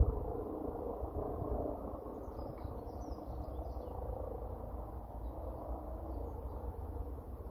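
Distant helicopter, still out of sight: a steady low drone of rotor and engine, with a few faint bird chirps about three seconds in.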